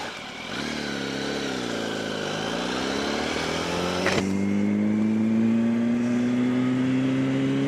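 Yamaha R1 sport bike's inline-four engine under way: the engine note dips and climbs again, a sharp click comes about four seconds in, and then the engine pulls steadily with a slowly rising pitch.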